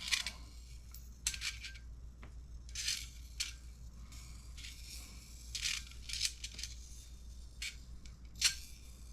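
Small steel differential balls for an RC ball diff being counted out one by one in a parts tray: light metallic clicks and rattles, a dozen or so at irregular spacing.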